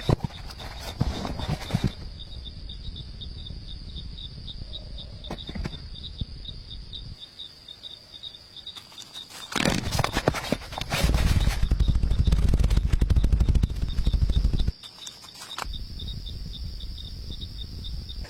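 Crickets chirping steadily in a fast, even high trill. A loud low rumble comes in for about four seconds past the middle, preceded by a few knocks and rustles.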